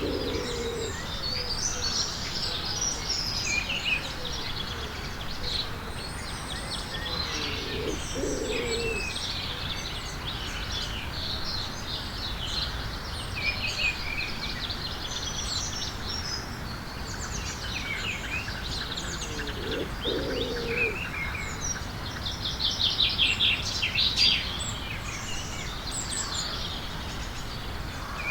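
A flock of small birds chirping and twittering, with many short calls overlapping continuously. Twice a brief lower call sounds under them, about a third of the way in and again past the middle. Near the end there is a fast rattling trill.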